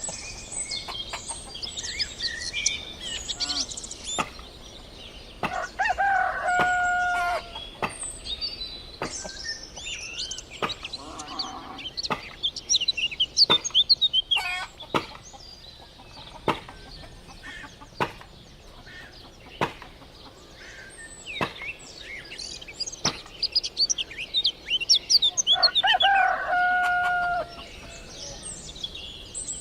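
A rooster crows twice, about twenty seconds apart, each crow lasting about a second and a half, while small birds chirp steadily throughout, with scattered sharp clicks.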